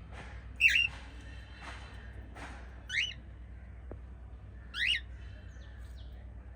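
Pet cockatiels calling: three loud, short chirps about two seconds apart, over softer chirping and a steady low hum.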